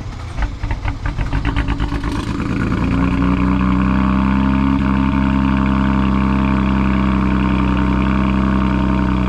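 BMW turbocharged inline-six cranking on the starter for about two and a half seconds, then catching and settling into a steady idle just after being flashed with a Stage 2+ MHD tune.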